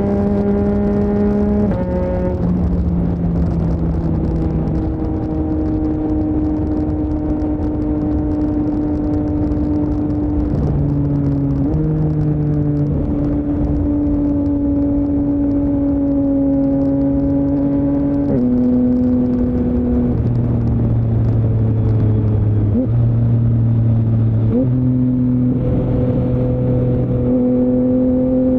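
A Yamaha MT-09's 890 cc CP3 inline-three running through an Akrapovic full-system exhaust while the bike is ridden. The engine note holds steady for stretches at part throttle, and its pitch jumps down or up several times with gear changes.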